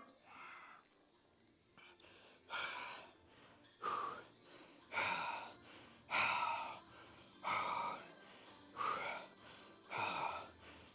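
A man's hard, rhythmic breathing under heavy exertion: forceful gasping breaths about once every second and a bit, strengthening after the first couple of seconds, as he strains through a heavy hack squat set.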